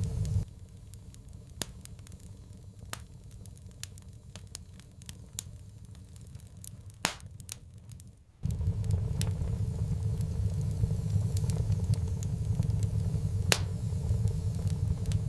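Wood fire crackling in a fireplace, with scattered sharp pops, two of them louder about seven and thirteen seconds in. Under it a low steady rumble drops away about half a second in and comes back about eight seconds in.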